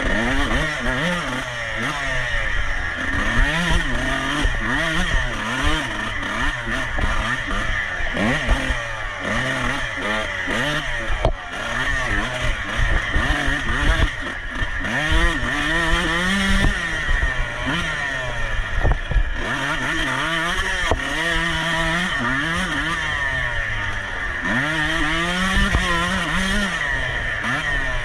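Off-road racing motorcycle engine revving up and down over and over, its pitch climbing and dropping every second or two as the throttle opens and closes through the gears, over a constant low rumble and knocking.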